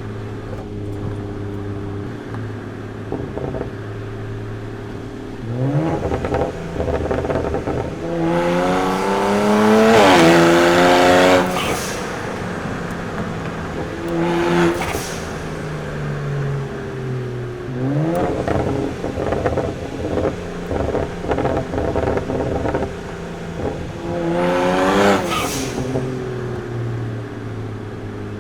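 BMW 335i's turbocharged inline-six through a VRSF muffler delete and catless downpipes, idling and then revved several times. A long climb to the highest revs comes about ten seconds in and falls back, followed by quick blips, another rev near the end, and a return to idle.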